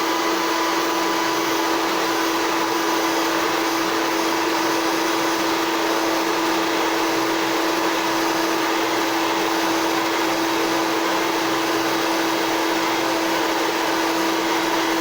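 Hair dryer running steadily: a constant rush of blown air over a steady motor hum.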